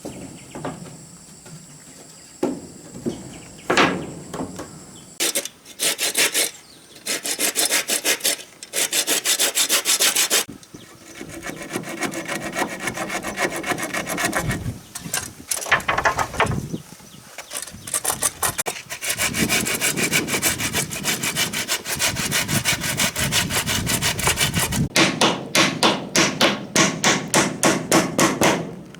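Hand saw cutting through wood in runs of back-and-forth strokes, with pauses between runs, and a quick steady rhythm of about three to four strokes a second near the end.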